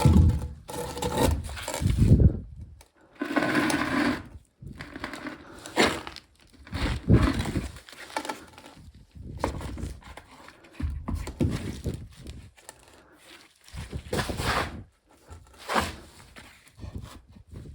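Intermittent hands-on work noises: scrapes, knocks and rustling of tools and parts being handled, coming in irregular bursts a second or two apart with short pauses between.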